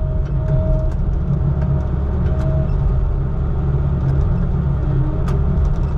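Vehicle engine running with a steady low rumble, a faint higher tone fading in and out over it.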